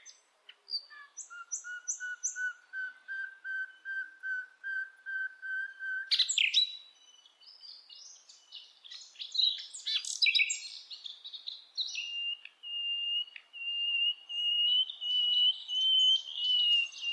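Bird singing: a fast run of evenly repeated whistled notes, then a jumble of varied chirps, then a long, even trill near the end.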